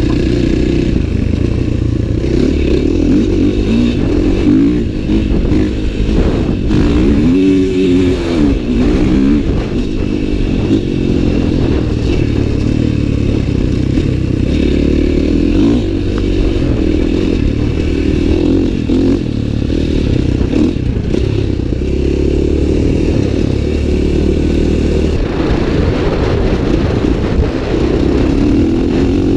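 Dirt bike engines running and revving, with one clear rise and fall in pitch about seven to nine seconds in.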